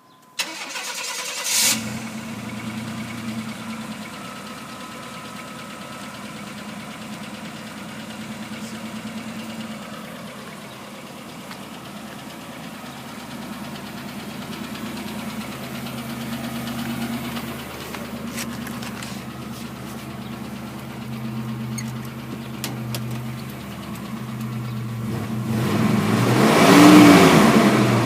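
1991 GMC Syclone's turbocharged 4.3-litre V6 starting, idling steadily, then revved once near the end, rising and falling. The engine has a knock that the owner suspects is a connecting rod or a piston pin.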